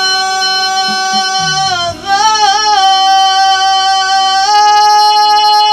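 A singer holding long drawn-out notes in a Malay ballad, with a short wavering run about two seconds in, then one long final held note over the accompaniment.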